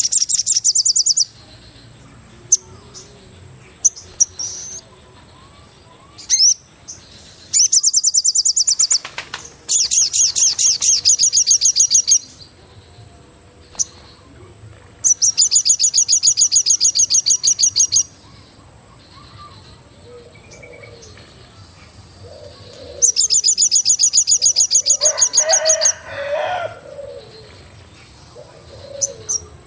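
Forest birds: one bird repeats a loud, fast trill in bursts of one to three seconds, about five times, with softer chirps between. A lower warbling call comes near the end, over a faint steady high tone.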